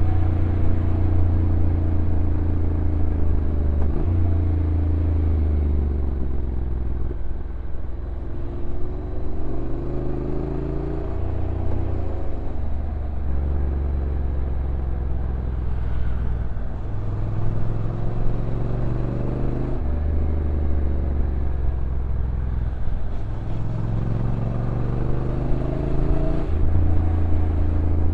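Honda NC750X's 745 cc parallel-twin engine running on a downhill ride, its note repeatedly rising and falling as the bike slows and speeds up, with several sudden steps in pitch where the DCT automatic gearbox changes gear. A steady rush of wind and road noise runs underneath.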